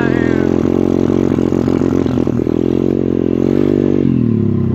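125cc pit bike's single-cylinder four-stroke engine running under throttle while riding, its revs holding fairly steady and then falling off about four seconds in.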